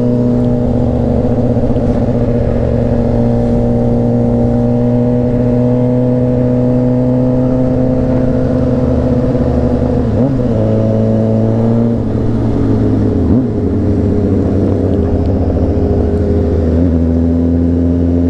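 Honda CBR600RR inline-four motorcycle engine running steadily at cruising speed. Its pitch wavers and dips about ten seconds in and again a few seconds later, then settles back to a steady note.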